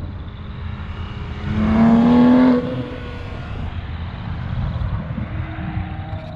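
A car engine revs briefly, rising slightly in pitch, about a second and a half in, over a steady low rumble of running engines.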